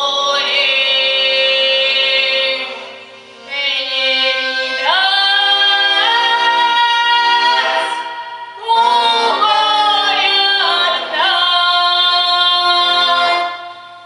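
Russian folk song sung by female voices in folk-choir style, holding long drawn-out notes in three phrases with brief breaks between them.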